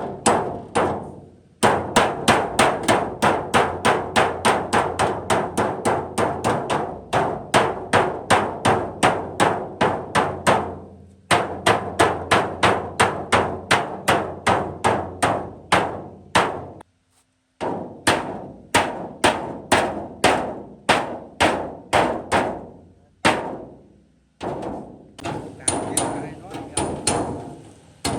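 Hammer blows on the sheet-metal of a rusted truck cab, several a second with the metal ringing between strikes, in runs broken by short pauses.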